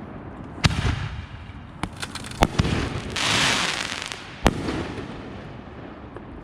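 Backyard consumer fireworks going off: about four sharp bangs spread through the few seconds, with a dense hissing crackle lasting about a second between the third and fourth.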